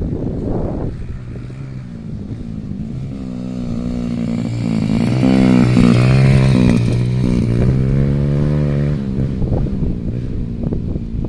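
Motocross dirt bike engine revving, its pitch rising and falling with the throttle as the bike rides past. It grows louder to a peak around the middle and then falls away.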